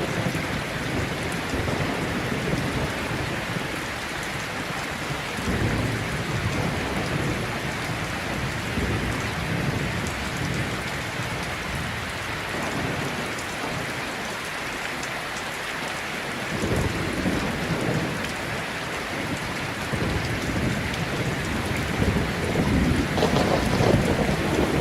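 Heavy rain falling steadily in a thunderstorm, with low rolls of thunder that come and go: one about six seconds in, another from about the middle, and a louder, growing one near the end.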